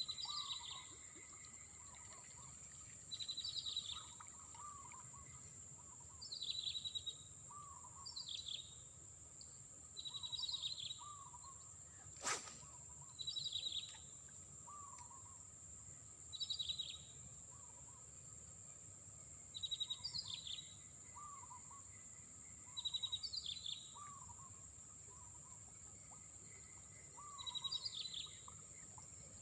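A bird calling over and over, about ten short identical phrases each lasting roughly a second, spaced two to four seconds apart, over a steady high-pitched drone. A single sharp click about twelve seconds in.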